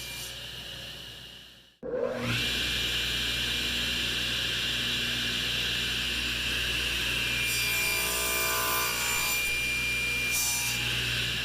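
Electric power saw cutting wood. A first cut fades out, then about two seconds in the motor starts with a quickly rising whine that settles to a steady pitch while the blade saws through the wood.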